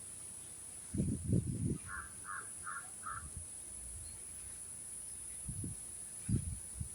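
A bird gives four short calls in quick succession, about three a second, a couple of seconds in. Low thumps come just before the calls and again near the end, over a steady high hiss.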